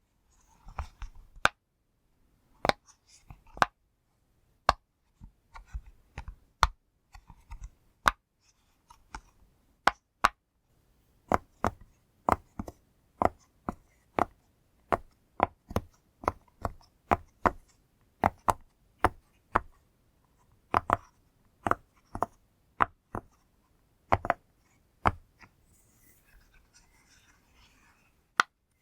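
Pop-it fidget toy being pressed: a long series of sharp, separate pops, irregular at first, then settling into a steady run of about two a second, with a pause and faint rustling near the end.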